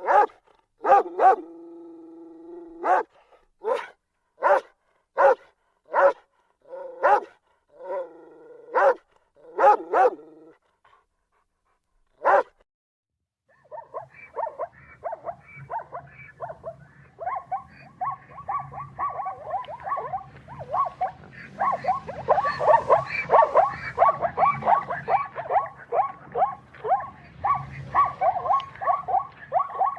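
A dog barking repeatedly, with a held whining note between some of the barks, then one last bark. About fourteen seconds in, a different dense chorus of rapid short calls takes over, several a second, over a low hum.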